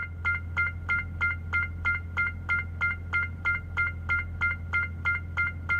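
A Hyundai hybrid's warning chime beeping over and over, about three two-tone beeps a second, over a steady low hum. It is the sign of the breakdown, which the owner suspects is a fault in the hybrid system.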